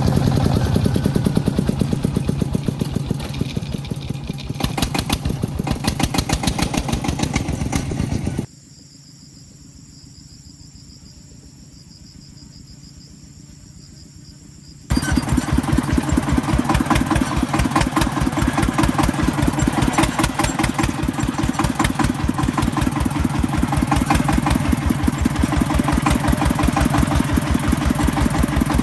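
Agricultural vehicle's engine running with a fast, even chugging rhythm. In the middle it drops to a much quieter background for about six seconds, then comes back just as loud.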